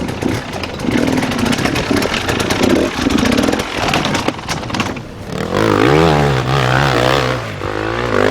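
Dirt bike engine revving, with rattly clatter for the first few seconds, then a loud wavering rev, the pitch jumping up and down quickly, from about five seconds in.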